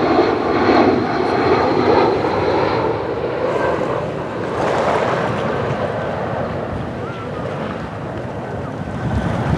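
Airliner on landing approach passing overhead, its engine noise loudest at first and then slowly fading.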